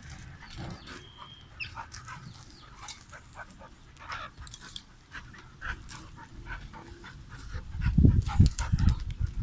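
A dog scuffling with a rooster: short clicks and scrapes throughout, with a burst of loud, heavy low thumps near the end.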